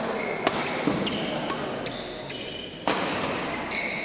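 A doubles badminton rally on an indoor court: rackets hitting the shuttlecock with sharp cracks, at the start, about half a second in, around one second in and again, loudest, near three seconds, with sports shoes squeaking on the court floor between the hits.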